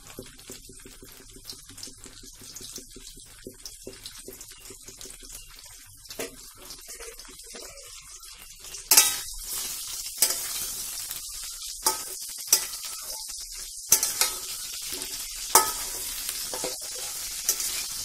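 Brinjal (eggplant) pieces frying in hot mustard oil in a metal kadai, being stirred. It is fairly quiet with light clicks at first. About nine seconds in a loud sizzle starts, with sharp knocks and scrapes of the spatula against the pan every second or two.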